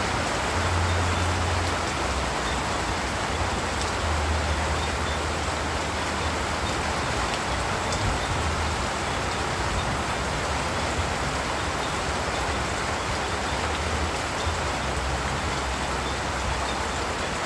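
Steady rain falling: an even, continuous hiss with a low rumble underneath.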